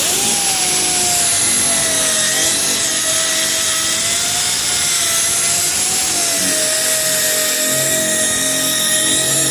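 8-inch, 5,000 RPM sanding machine with a coarse 36-grit disc, running at full speed against a car door panel. It gives a steady high whine that wavers a little in pitch as it bears on the surface, over a grinding hiss.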